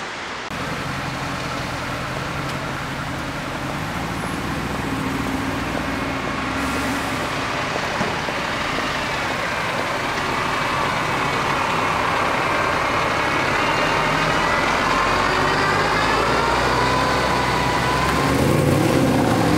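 Mercedes-Benz SLS AMG's 6.2-litre V8 running as the car pulls away and rolls slowly along the street, the engine note rising gradually and growing louder toward the end.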